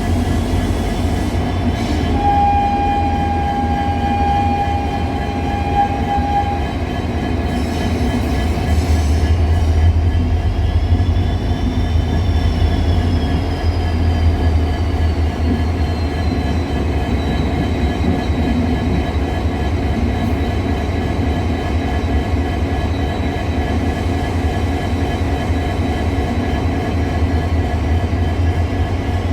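EMD WDP4 diesel locomotive's two-stroke EMD 710 engine idling steadily with a low, even rumble. A thin steady tone sounds for about four seconds near the start.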